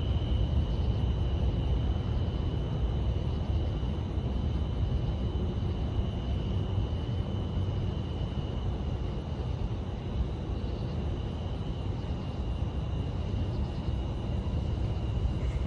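Steady low outdoor rumble with a thin, high, unchanging tone running through it.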